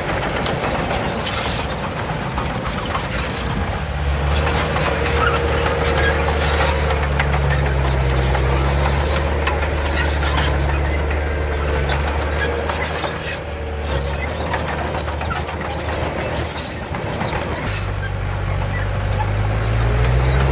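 Komatsu D31 crawler bulldozer's diesel engine working, its pitch and load rising and falling several times, with intermittent high squeaking over the engine.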